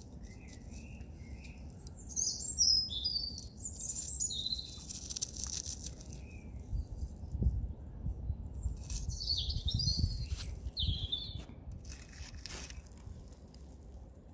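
Small birds chirping in two runs of quick, high, twittering notes, over a low rumble, with a few sharp clicks near the end.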